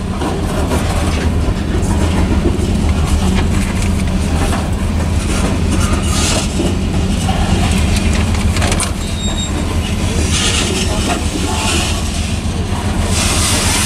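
Grain train's covered hopper cars rolling past: a steady rumble of steel wheels on the rails with a constant run of clicks and knocks.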